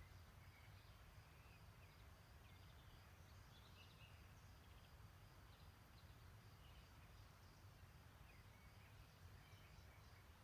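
Faint songbirds chirping in short, scattered calls, with a high note repeated evenly throughout, over a steady low rumble.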